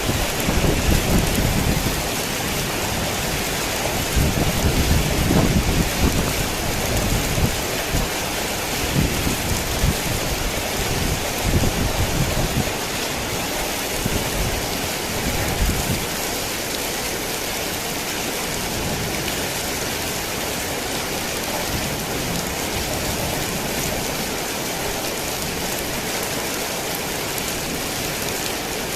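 Heavy rain falling in a steady dense hiss, with low rolling rumbles of thunder that swell and fade through the first half and then die away, leaving only the rain.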